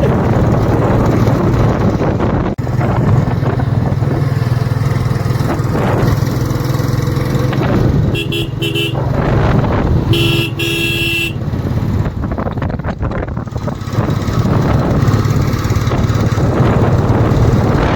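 Motorcycle on the move, its engine a steady low drone under heavy wind noise on the microphone. A vehicle horn honks twice: briefly about eight seconds in, then for about a second around ten seconds in.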